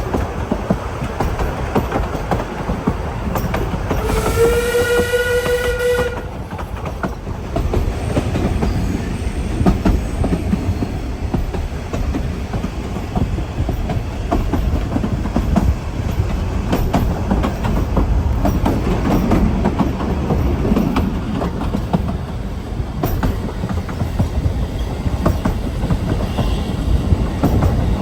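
Narrow-gauge train running, with a steady rumble and a rapid clatter of wheel clicks over the rail joints. About four seconds in, its whistle sounds once for about two seconds.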